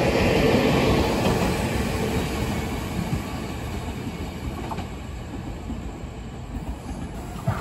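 Taiwan Railway electric multiple-unit train pulling away along the platform track. Its wheel and running noise fades steadily as it moves off into the distance.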